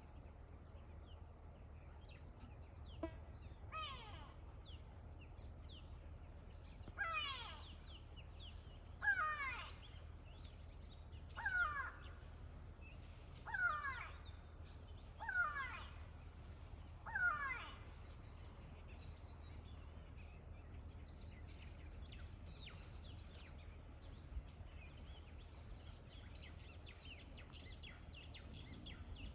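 A bird giving a series of loud, harsh calls, about one every two seconds, seven in a row, then stopping; fainter bird calls follow over a low steady background.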